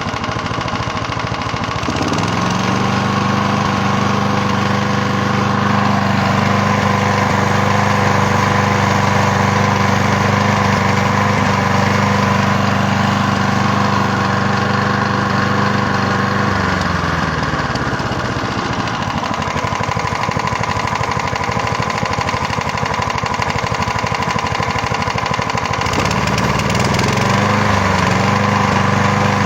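Gardener lawnmower's small engine running, speeding up about two seconds in and holding a steady speed. It slows back down around the middle and picks up speed again near the end.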